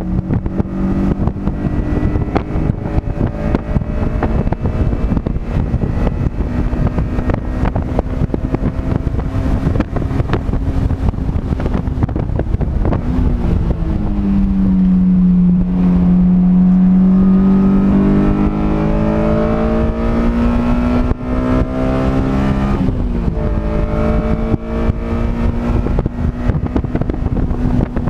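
Vehicle engine heard onboard at speed on a race track, running hard the whole time. About halfway through the revs fall as it slows, then climb steadily for several seconds under full throttle before dropping suddenly at an upshift. Wind buffets the microphone throughout.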